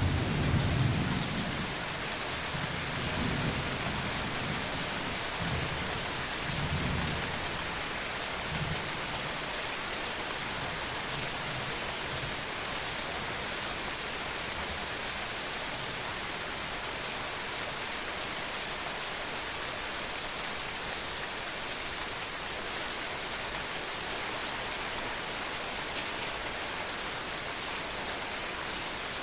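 Steady rain hiss with a rumble of thunder at the start that rolls on and fades away over the first ten seconds or so.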